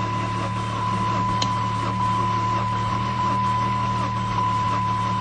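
An old Saturn's double-overhead-cam four-cylinder engine being cranked on its starter in deep cold and not firing, a steady drone with a thin high whine over it. Its compression doesn't even sound right.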